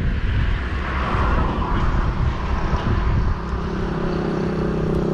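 Motorbike engine running while riding, with wind rumbling on the microphone. The engine's steady hum grows louder near the end.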